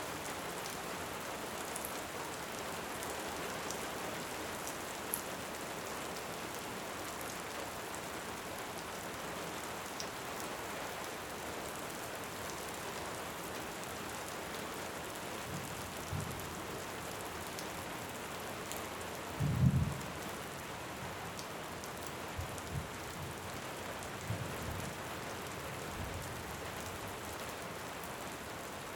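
Steady heavy rain with a few low rumbles of distant thunder in the second half, the loudest just under two-thirds of the way through. A few faint crackles from a fire sit under the rain.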